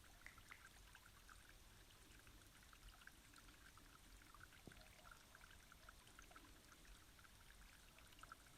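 Near silence: a faint, steady background of soft hiss and scattered small ticks.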